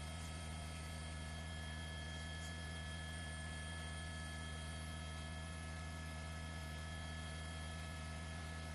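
Steady, unchanging hum with several steady high tones and no other events: the open audio feed of a news helicopter with no one talking.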